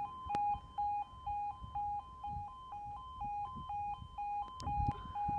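Level crossing audible warning alarm sounding: a two-tone yodel that switches evenly between a lower and a higher note, about two full cycles a second, warning of an approaching train. There is a single sharp click early on.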